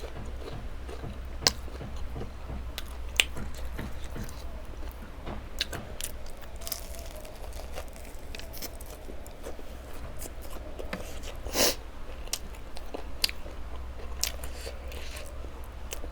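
Close-miked eating: chewing and crunching bites of food, with scattered sharp crackles, the loudest three a little over a second in, about three seconds in, and near the middle. A steady low hum runs underneath.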